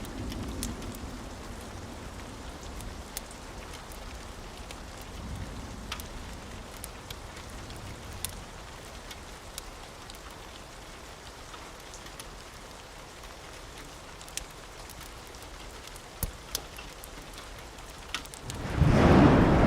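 Steady rain with scattered sharp ticks, and a low thunder rumble dying away in the first seconds. Near the end a loud thunderclap breaks in suddenly.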